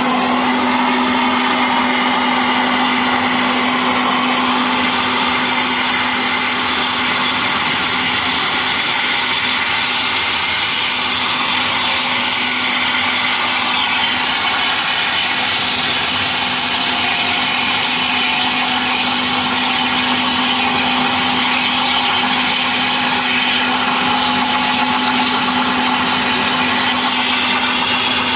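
Helicopter running on the ground while preparing for takeoff: a loud, steady machine whine over a strong low hum, with some tones slowly rising in pitch partway through.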